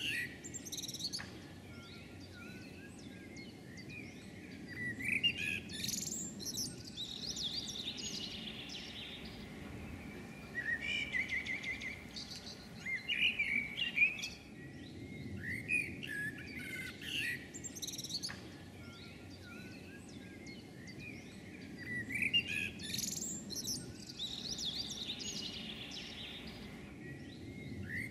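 Small songbirds chirping and warbling in bursts every few seconds, over a steady low background rumble.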